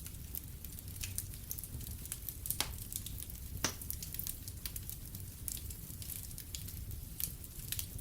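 Wood fire in a fireplace crackling, with irregular sharp pops, two louder ones about a second apart near the middle, over a low steady rumble.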